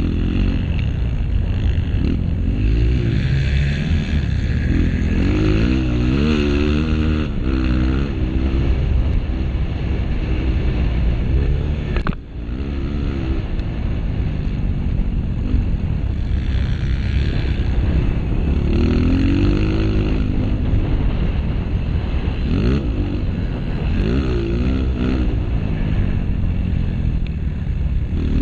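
Honda CRF230F dirt bike's single-cylinder four-stroke engine under race riding, revs rising and falling over and over as the throttle is worked, with a brief sharp drop in level about twelve seconds in.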